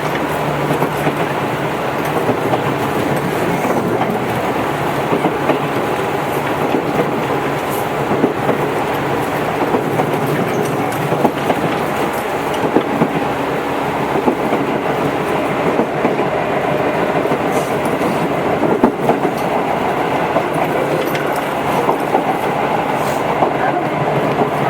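Tobu 8000 series electric train running, heard from inside the car: a steady rumble of wheels on rail with scattered clicks of wheels over rail joints.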